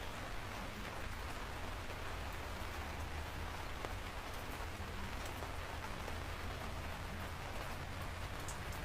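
Steady rain falling, with scattered drops tapping on a surface and a low rumble underneath.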